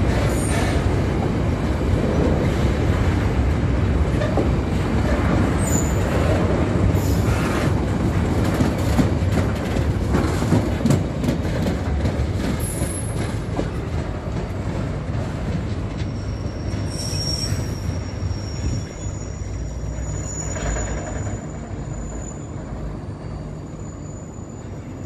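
Irish Rail engineering train of flat wagons and yellow on-track machines running past, its wheels rumbling and clicking over the rail joints. There are brief high wheel squeals, then a longer steady high squeal in the second half, and the train gets quieter near the end as it draws away.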